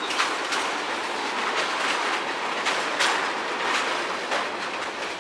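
A CSX freight train's tank cars and covered hoppers rolling past, a steady rush of steel wheels on rail. Sharp clacks come every half second or so as the wheels cross rail joints.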